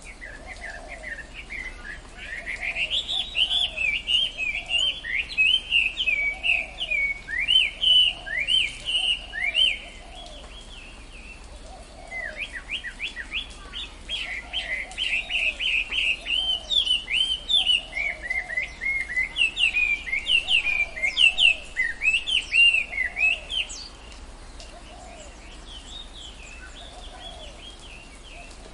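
Tropical forest birds chirping: two long bouts of rapid, high chirps, the second ending near the end and leaving only faint chirping. A lower call repeats about once a second underneath.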